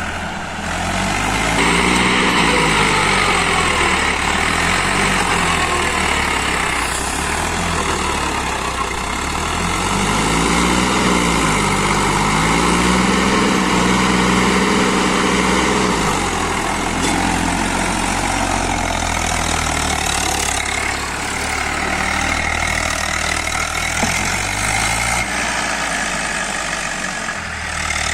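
Tractor diesel engine running, revving up and dropping back several times, with the strongest rise a little past the middle.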